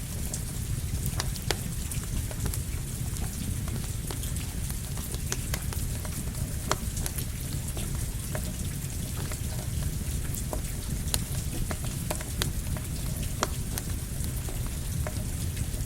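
Steady rain with a campfire crackling: a constant hiss and low rumble, with irregular sharp pops and snaps scattered throughout.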